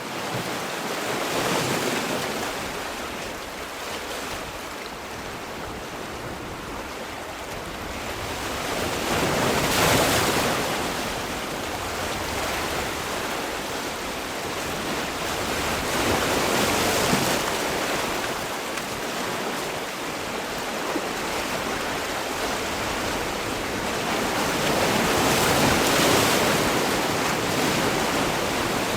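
Sea waves breaking and washing on the shore: a steady rush of surf that swells and falls back, a louder break roughly every eight seconds.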